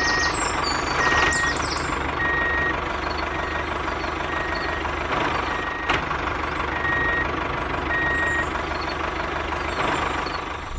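Vehicle reversing alarm beeping about once a second over steady engine noise; the beeps stop a couple of seconds before the end.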